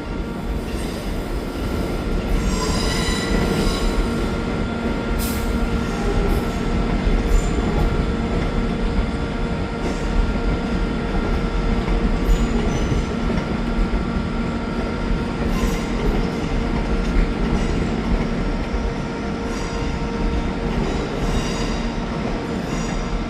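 Train moving on the rails with a steady rumble and hum, with scattered clicks of the wheels. The wheels squeal briefly about three seconds in and again near the end.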